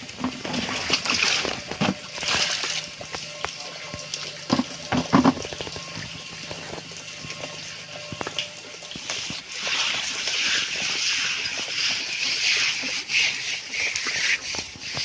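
Running water splashing and trickling, its level rising and falling, with scattered small clicks.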